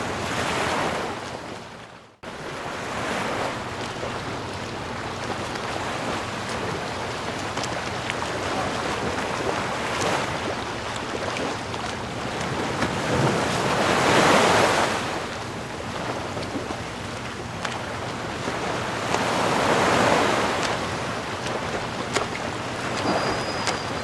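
Ocean waves washing in and out, several swells rising and falling, the loudest about halfway through. About two seconds in, the sound fades away briefly and cuts back in suddenly.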